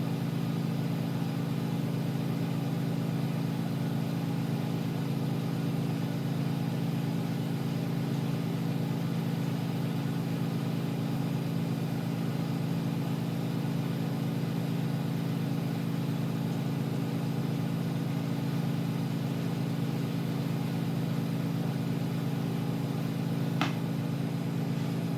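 Steady hum and rush of a neon bender's gas-air burner and its air blower running while glass is heated for a side weld. There is a single small click near the end.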